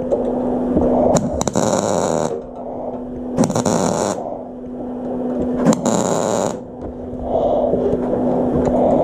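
Welding arc crackling in three short bursts of about a second each, like tack or stitch welds on sheet-metal sculpture. Between the bursts a steady low hum and slow, rasping breaths through a respirator.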